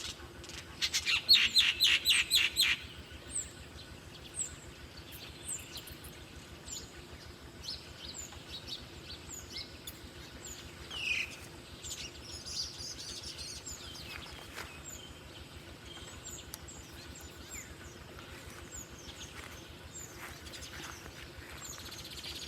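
Wild birds calling. About a second in comes a loud, fast run of about a dozen notes lasting two seconds, followed by scattered short, high chirps and downslurred call notes.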